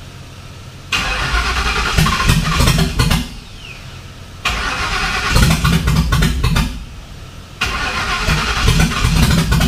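1986 Mustang GT's engine being cranked by its starter in three separate tries of about two seconds each, not firing up. It won't start because too much fuel pressure from the new high-volume fuel pump is flooding the cylinders and wetting the spark plugs.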